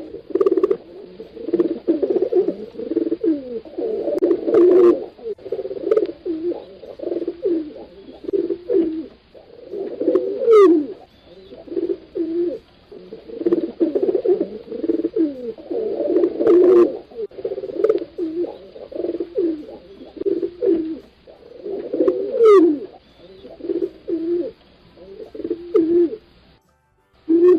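Pigeons cooing: low, throaty coos repeated in phrases, with occasional sliding calls. The same sequence of calls comes round again about every twelve seconds.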